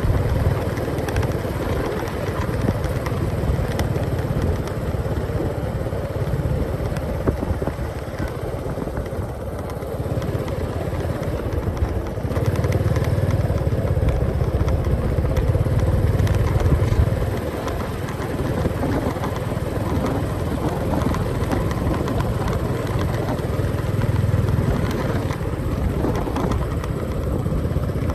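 Motorcycle engine running steadily while riding along a road. Its low rumble gets louder and softer a few times.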